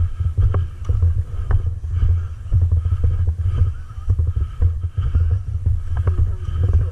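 Loud, uneven low rumble of handling noise on a carried camera's microphone, with scattered sharp clicks and knocks and faint distant voices.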